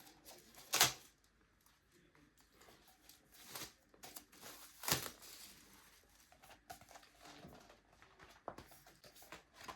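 Plastic shrink-wrap being torn and peeled off a book, crinkling throughout with a few sharp rips, the loudest about a second in and again about five seconds in.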